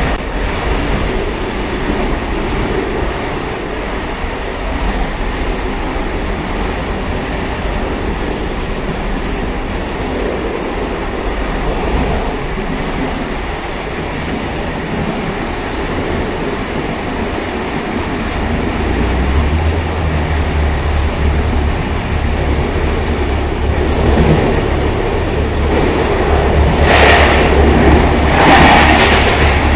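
Railcar running along the track with a steady rolling rumble. A low drone grows stronger from about two-thirds of the way in, and two short, louder bursts come near the end.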